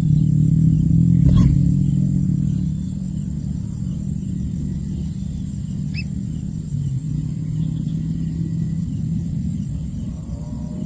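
A low, steady engine hum, like a motor vehicle running, with one sharp click about a second and a half in.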